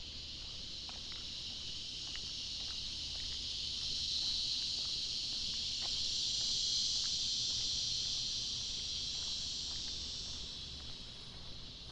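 A chorus of insects droning at a high pitch, swelling to its loudest in the middle and fading near the end, with faint footsteps on pavement underneath.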